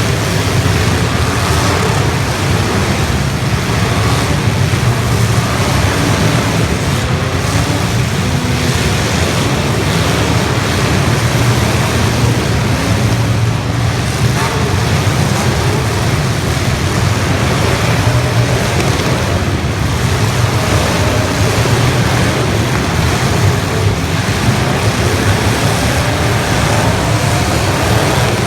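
Engines of several 1980s stock cars in a demolition derby running and revving together as one loud, steady din.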